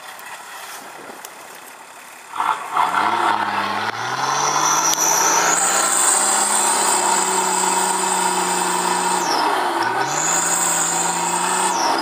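A 4x4 vehicle's engine comes in suddenly a couple of seconds in, its revs climbing and then holding steady. Near the end the revs drop briefly and climb again.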